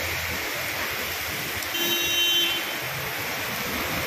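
Heavy rain pouring onto a flooded street while cars drive through the water. A vehicle horn honks once, briefly, about two seconds in.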